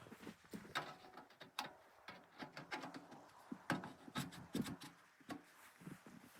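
Irregular knocks, clicks and rubbing from objects being handled, with the sharpest knocks near the middle.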